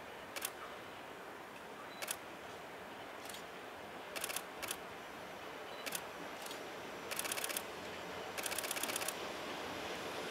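Camera shutters clicking: single shots scattered throughout and two rapid bursts of continuous shooting in the second half, over a steady background rumble that grows a little louder near the end.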